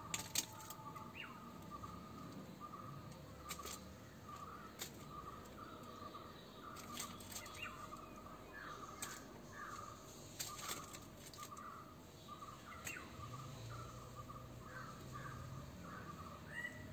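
Birds calling in a steady run of short repeated notes, several a second, with a few sharp clicks, the loudest just after the start.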